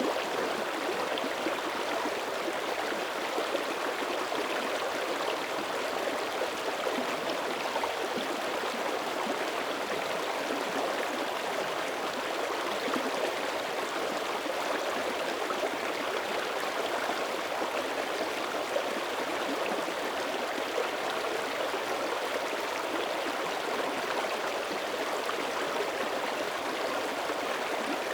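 Mountain creek running over rocks: a steady rush of flowing water with fine gurgles and splashes.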